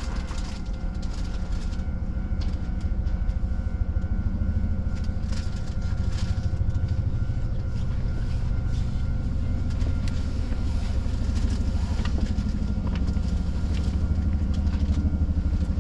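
A stopped electric commuter train humming steadily as it waits at a station, with a low drone and faint steady whining tones from its onboard equipment.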